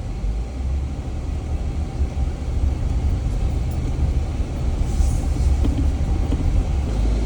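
Jeep driving slowly along an off-road trail: a steady low rumble of engine and drivetrain, with a brief hiss about five seconds in.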